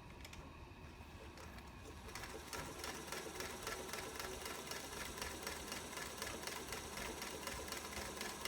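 A 1947 Singer 221 Featherweight sewing machine starts stitching about two seconds in and sews steadily through two layers of denim. Its motor runs under a rapid, even clicking from the needle and hook mechanism. The machine is freshly overhauled and runs smoothly.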